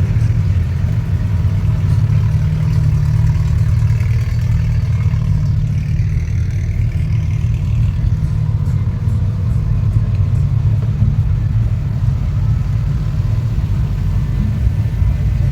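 A car engine running steadily at idle, a constant low rumble.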